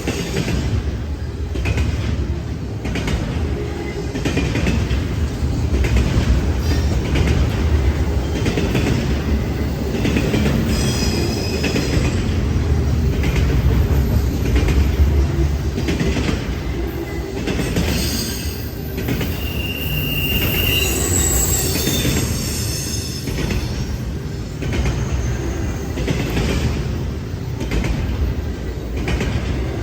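Freight train cars rolling past: a steady low rumble of wheels on rail with repeated clicks over the rail joints, and brief high-pitched wheel squeals, the clearest about two-thirds of the way through.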